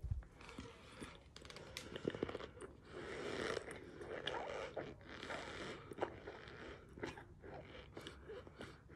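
Close-up chewing of a mouthful of raw cornstarch: soft crunching with many small crackles, densest a few seconds in.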